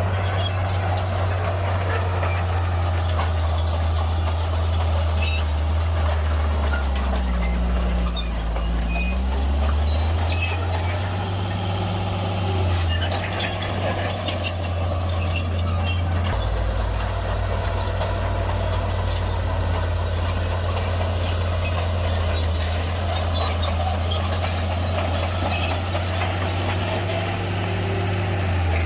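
Shantui bulldozer's diesel engine running under load as it pushes rock, a steady low engine note that sags in pitch and picks back up about a quarter of the way in, with scattered clanks and knocks over it.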